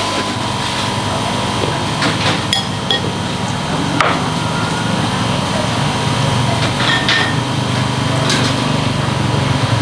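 Power drill running steadily under load, with several sharp knocks.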